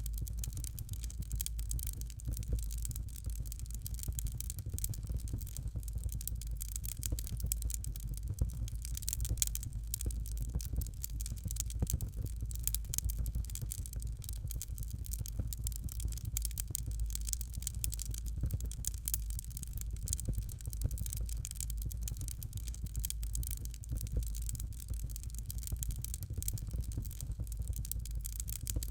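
Fireplace fire crackling: dense small pops and snaps over a steady low rumble.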